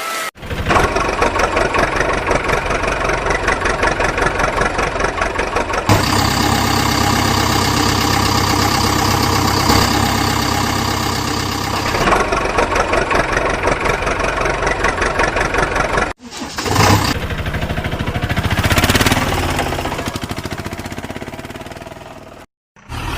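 Motor vehicle engine sound effects, an engine starting and running with a fast, even chug, in several spliced segments that change abruptly every few seconds.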